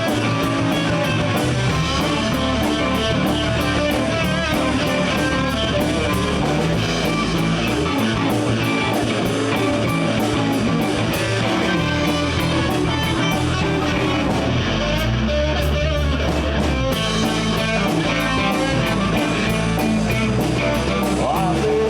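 Live blues band playing an instrumental break: a guitar lead over bass guitar and a drum kit keeping a steady cymbal beat.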